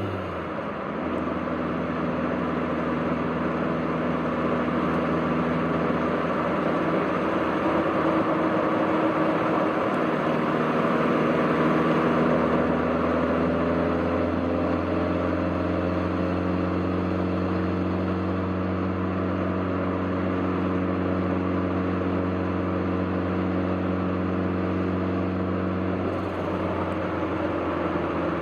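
The turbocharged inline-four engine of a 1991 Toyota MR2 Turbo is running under steady cruise, its drone climbing slowly in pitch as road speed builds. The pitch drops about a second in and shifts again near the end.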